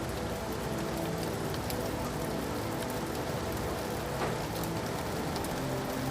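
Steady rain falling, with individual drops clicking against a surface and one slightly sharper drop about four seconds in.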